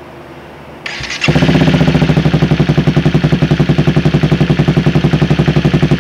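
Honda CBR250R's single-cylinder four-stroke engine is cranked by its electric starter about a second in, catches at once and settles into a loud, fast, evenly pulsing idle through a freshly fitted Dan-Moto conical aftermarket muffler with the catalytic converter removed.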